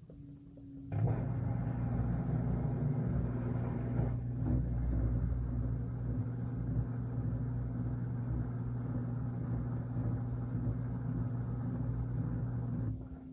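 Washing machine running with a steady motor hum and a churning rumble, which kicks in abruptly about a second in and cuts off near the end.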